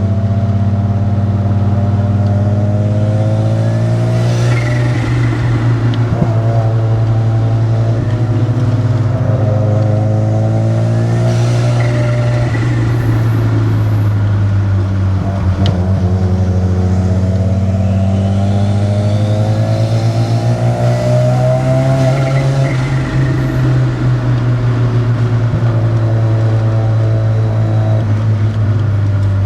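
Modified Mazda RX-7's 13B twin-rotor rotary engine pulling along the road, its revs rising and falling through throttle changes and gear shifts, with a short hiss a few times.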